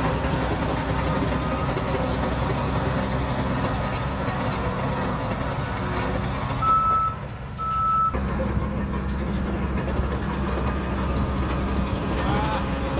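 Shantui DH17C3 Pro bulldozer's diesel engine running steadily under load. A little past halfway the engine sound dips briefly and a reversing alarm gives two short beeps about a second apart.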